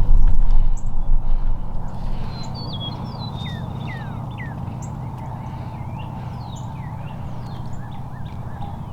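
Loud low rumbling thumps of handling or wind on the microphone for about the first two seconds, then wild birds chirping in short falling notes against steady outdoor background.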